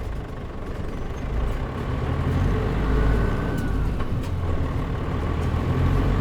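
Interior sound of a Mitsubishi Fuso Aero Star city bus's turbo diesel engine pulling away from a stop, its low rumble building as the bus accelerates, easing briefly about four seconds in.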